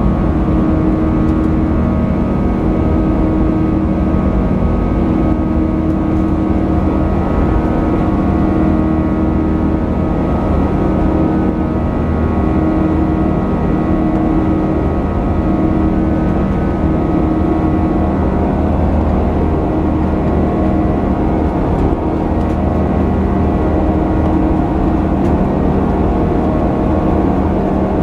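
Boeing 737-800's CFM56-7B jet engines running steadily, heard inside the passenger cabin as a constant, loud rumble with a low hum and a few steady whining tones.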